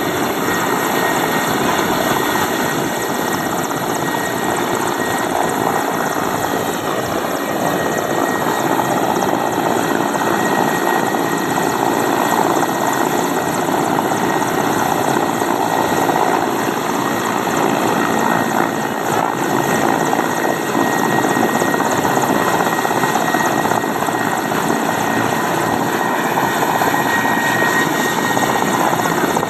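Helicopter running steadily: a loud, unbroken din of engine and rotor, with a thin steady high whine through it.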